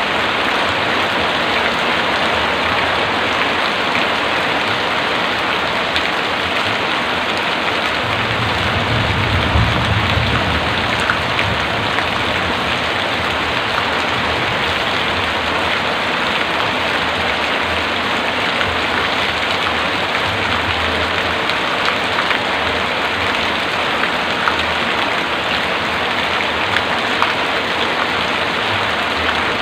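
Heavy rain falling steadily, with a brief low rumble of distant thunder about eight seconds in.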